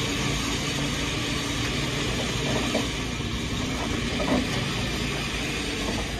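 Vehicle engine idling steadily, with a short knock about four seconds in.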